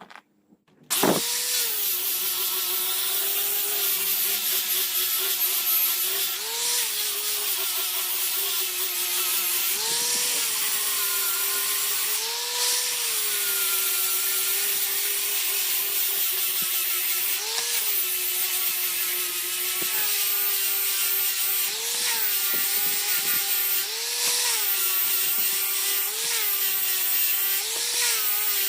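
A power tool switches on about a second in and runs steadily with a high hiss. Its pitch rises briefly every two or three seconds.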